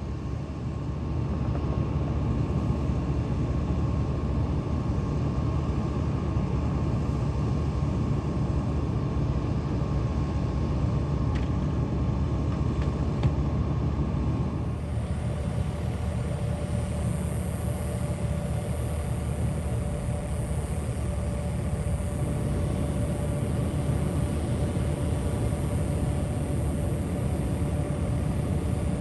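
Vehicle engine idling with a steady low rumble. About halfway through, a faint high hiss and a faint steady tone join in.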